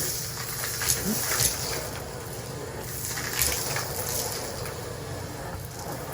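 Henry Hoover (Numatic cylinder vacuum cleaner) running with a steady suction hiss and motor hum, with a few sharp clicks and rattles as debris is sucked up.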